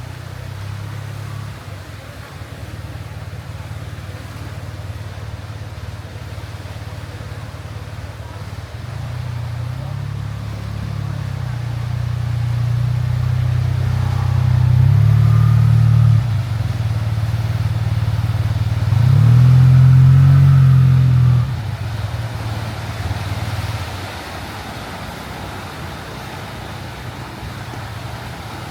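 Low steady engine drone. It swells louder twice, once for several seconds in the middle and once more loudly a few seconds later, as engines pass close by and then fade.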